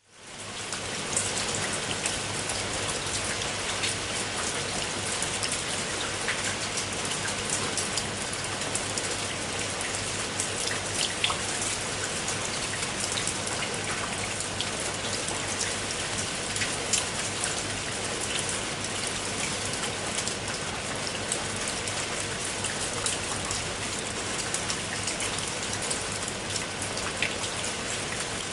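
Water of a koi pond's water feature splashing and pattering steadily, like rain, with a faint low hum underneath; it fades in over the first second.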